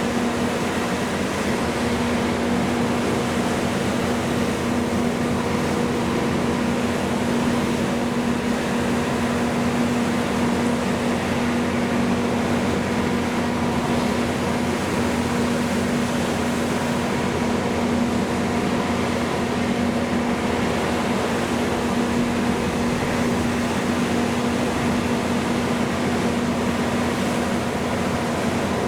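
Steady machinery drone with a constant hum, the kind of running engines or generators heard around boats in a harbour channel.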